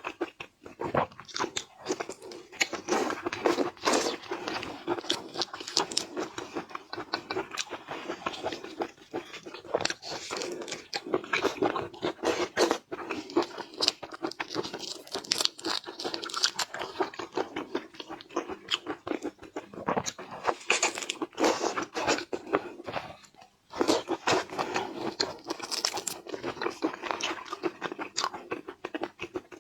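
Close-miked eating of seafood: continuous biting, crunching and wet chewing with many sharp clicks and crackles, broken by a short pause about three-quarters of the way through.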